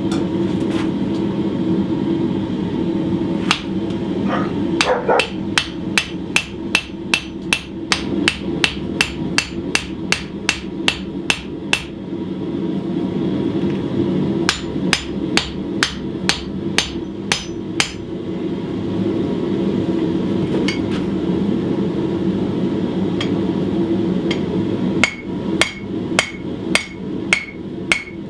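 Hand hammer striking hot steel round bar on an anvil, in runs of quick ringing strikes about three a second with pauses between: upsetting the end of the bar to flare it into a knife pommel. A steady low rush runs underneath.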